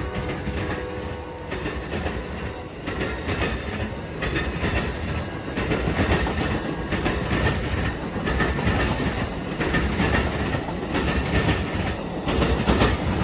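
A train passing close by: a steady rumble with a repeating clatter as the wheels of each car cross rail joints, and a high metallic wheel squeal coming and going.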